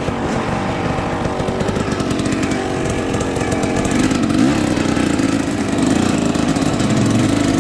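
Dirt bike engine running, its pitch dipping and climbing with the throttle, getting louder about four seconds in.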